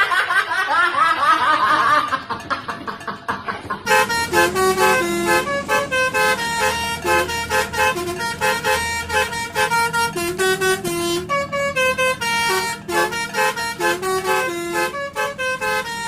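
Basuri telolet bus horn: a dense, warbling blare of tones for the first four seconds or so, then the horn playing a tune of short, stepped notes.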